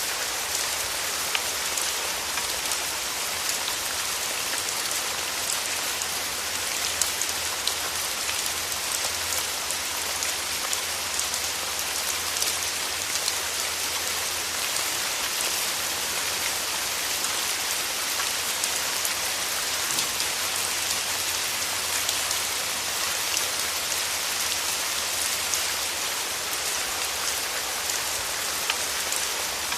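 Steady rain falling, an even hiss with many small drop ticks and an occasional louder drop.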